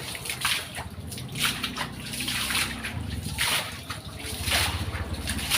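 Floodwater splashing and sloshing in irregular bursts, with an engine running low underneath, louder for a couple of seconds in the middle.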